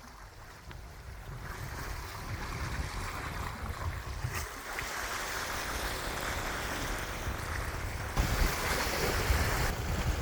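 Wind buffeting the microphone over the wash of sea waves, fading in at the start and growing louder about eight seconds in.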